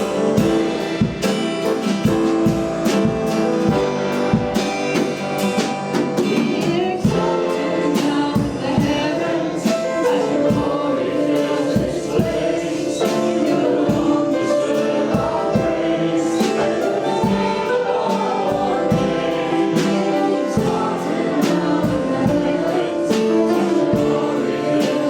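Gospel worship song with group singing over a band, steady beat.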